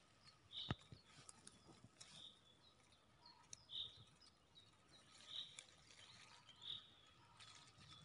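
A bird calling faintly, repeating one short high note about every one and a half seconds, five times. A single sharp click comes a little under a second in.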